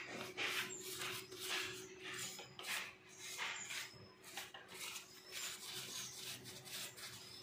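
Rhythmic hand rubbing or scraping strokes on a part, about two a second, as in abrading it by hand during restoration.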